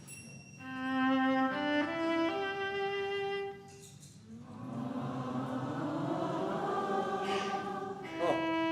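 A solo violin plays a short improvised phrase of a few notes, then the congregation sings it back together, a loose, blurred mass of voices sliding upward: a call and response. The violin begins a new phrase near the end.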